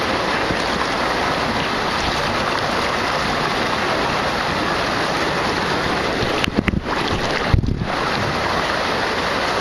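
Steady rush of water running out of a water-park tube slide into the splash pool, mixed with wind on the microphone. A few brief knocks break in about seven seconds in.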